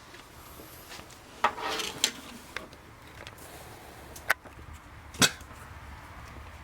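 Scattered metallic clinks and knocks of hand tools and engine parts being worked on in a small shop: a short clatter about a second and a half in, then single sharp taps, the loudest about five seconds in.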